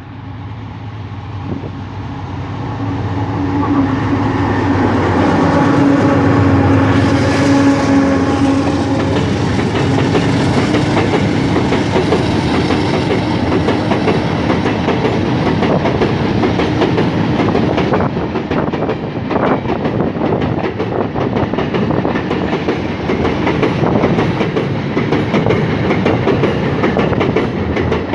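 Freight train passing close by: its GE diesel-electric locomotives run by with a steady engine note that builds over the first few seconds. Then the wagons' wheels clatter steadily over the rail joints.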